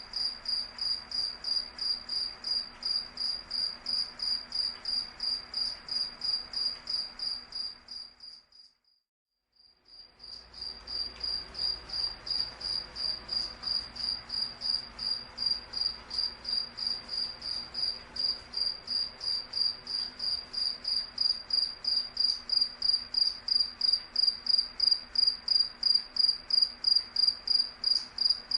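A cricket chirping steadily, about three high-pitched chirps a second. The chirping fades out about eight seconds in and returns after a second or two of silence.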